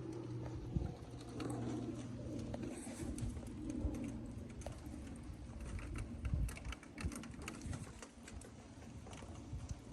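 A dove cooing, with scattered sharp clicks throughout and a low steady hum that stops about three seconds in.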